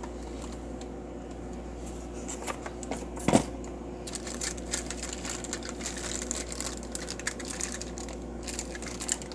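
Packaging rustling and crinkling with scattered small clicks as a toy train is taken out of its box, with one sharp knock about a third of the way in.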